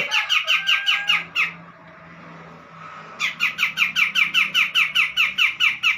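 Cucak jenggot (grey-cheeked bulbul) calling: a fast chattering run of short, falling notes, about seven a second, that breaks off about a second and a half in and starts again about three seconds in.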